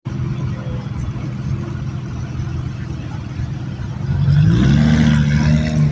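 Car engine idling, then revved up about four seconds in and held at higher revs, louder, until near the end.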